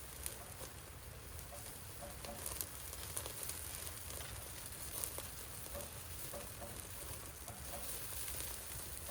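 Wood fire crackling with scattered sharp pops, over a steady patter of rain.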